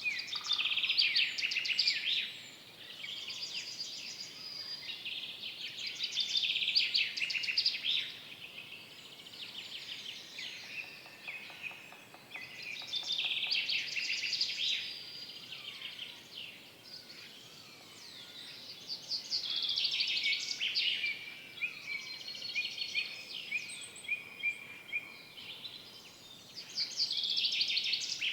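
Songbirds singing in a forest: loud phrases of rapid trilled notes come every few seconds, with quieter calls between them over a faint background hush.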